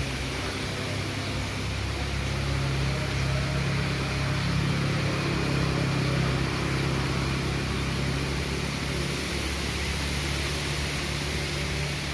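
Strong wind blowing steadily, swelling a little in the middle, with a low steady hum beneath it.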